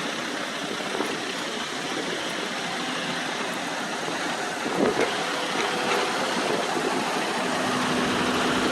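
Heavy diesel engines of dump trucks and earthmoving equipment running steadily, with a few short knocks about five seconds in.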